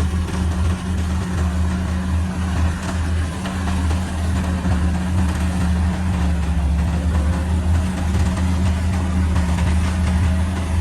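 Kubota DC-70 Pro rice combine harvester's diesel engine running steadily: a low, even drone over a constant wash of machinery noise.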